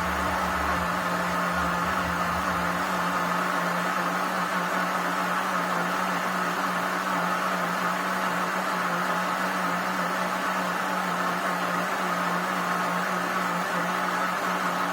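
Electric blender running steadily at one speed, mixing cake batter, with an even motor hum and whir that does not change.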